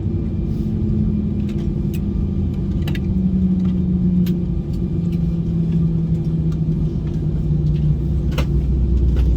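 A vehicle running with a steady low rumble and a hum that slowly falls in pitch, with a few scattered light clicks.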